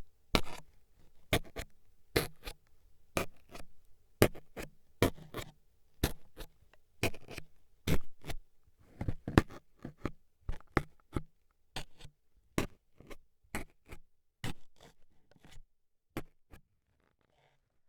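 Toothpick jabbing and scraping at an ASMR microphone's ear: a string of sharp, irregular taps and scratches, about two or three a second, that thin out and stop near the end.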